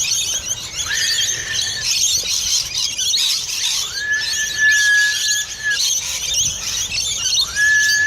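A person whistling three long, steady notes, each sliding up quickly to a held pitch. Under them runs the constant shrill chattering of a large flock of lorikeets.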